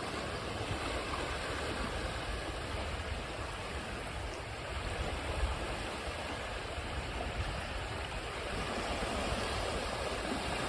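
Ocean waves washing in: a steady rush of surf, swelling a little near the end.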